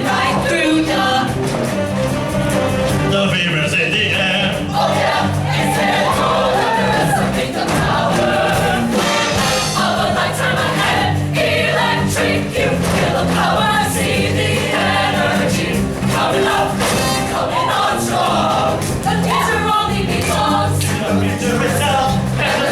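A choir singing with instrumental backing; the music is loud and steady and does not break.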